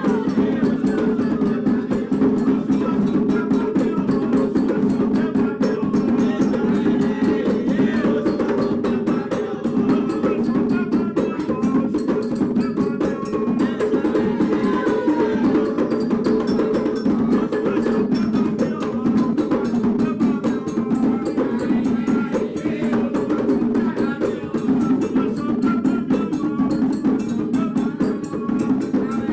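Candomblé drumming, the 'rum' toque for Oxum: hand drums with a bell-like metal percussion keeping a steady, dense rhythm.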